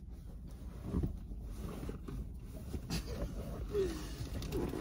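Low steady rumble of a car's running engine heard inside the cabin, with a faint short hum from a person near the end.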